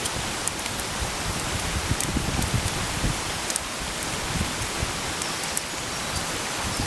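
Breakfast cooking over a wood campfire: a steady sizzling hiss with scattered sharp crackles and some irregular low thumps.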